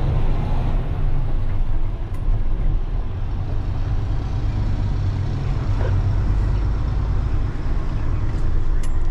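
A semi truck's diesel engine running with a steady low rumble.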